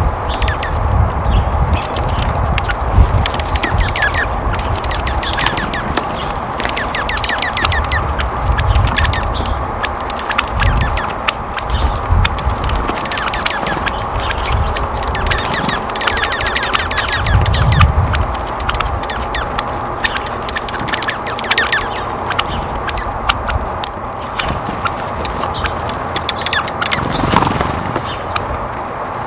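Small wild birds chirping and calling in many short, quick notes over a steady background hiss, with intermittent low rumbles.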